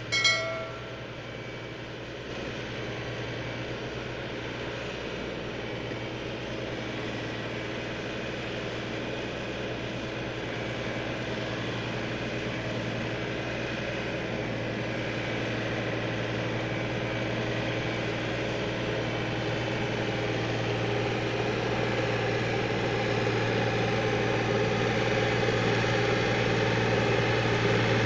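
Farmtrac 45 tractor's diesel engine running steadily while hauling a loaded trolley, growing gradually louder as it comes closer.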